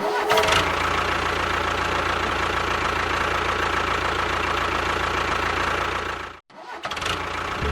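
A small motor running steadily, with a constant hum and a whirring rattle. It cuts out briefly near the end and then resumes.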